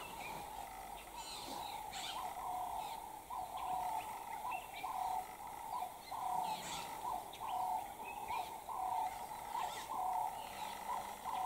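A bird calling over and over in a steady series of short, even notes, about two a second, with other birds chirping higher and more sparsely.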